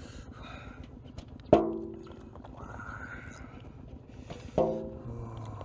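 Two sharp knocks about three seconds apart, each ringing briefly with a pitched tone, over steady background noise.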